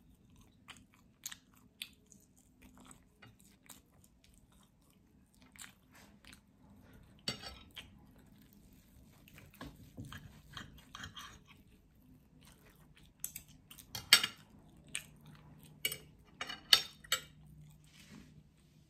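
A person chewing and biting breakfast food in short, irregular crackles and mouth clicks, louder around seven seconds in and in a busier stretch from about thirteen to seventeen seconds.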